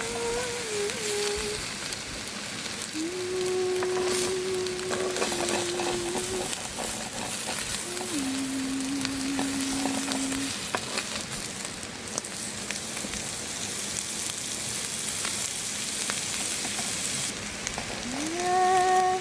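Food sizzling and frying steadily on a hot flat stone over a campfire.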